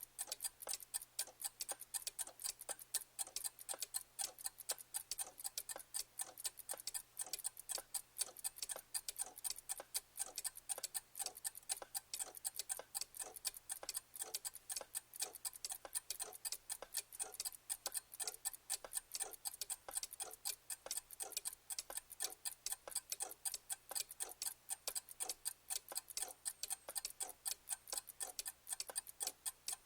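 Clock ticking: an even, unbroken run of sharp ticks, several a second.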